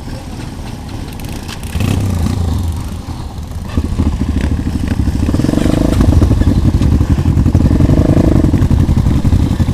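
Motorcycle engine running close by, getting louder about four seconds in with a rapid firing beat, and swelling twice.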